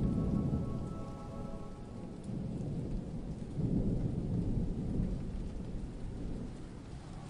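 Thunder rumbling in low, rolling swells over steady rain hiss. A sustained synth chord fades out during the first two seconds.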